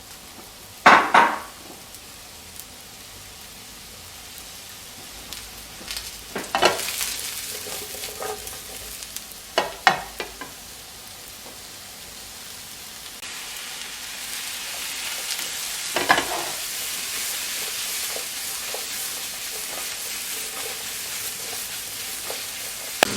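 Mushrooms frying in a pan, a steady sizzle that grows louder in the second half. A utensil stirring them knocks and scrapes against the pan a few times, sharpest about a second in.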